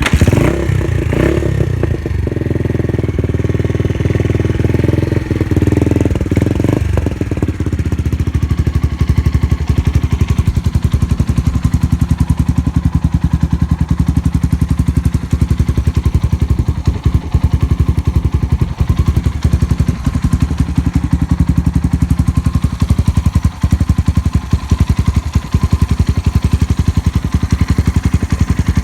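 Suzuki Grass Tracker's air-cooled single-cylinder engine starting and running through an aftermarket SuperTrapp 4-inch megaphone full exhaust. It runs higher and rougher for about the first seven seconds, then settles into a steady, evenly pulsing idle with no abnormal noises.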